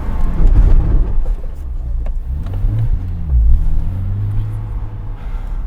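Porsche Cayman 987's 2.7-litre flat-six engine being driven hard in a tight autosolo course. The engine note rises and falls several times in the middle, then holds a steady, lower pitch for about a second near the end.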